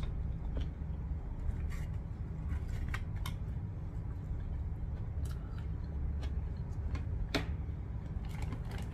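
A person chewing food with open-mouth smacks and wet clicks, scattered irregularly and the sharpest about seven seconds in, over a steady low hum.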